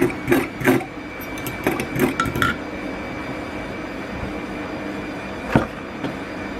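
A spoon clinking and knocking against a bowl while stirring dry seasonings, a quick run of taps in the first two and a half seconds and one more knock near the end. A steady faint hum runs underneath.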